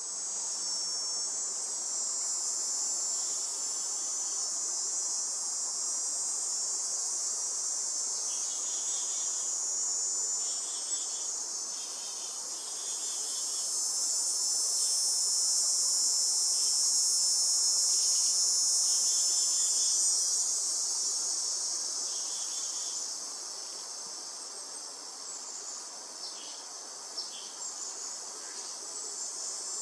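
Insect chorus: a steady, dense high-pitched trilling that swells about halfway through and then eases off, with short chirps repeated now and then beneath it.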